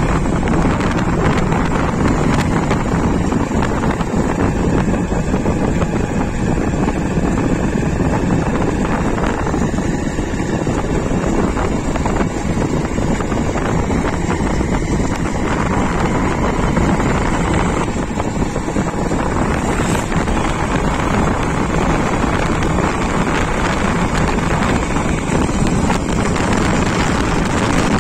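Steady engine rumble with wind buffeting the microphone.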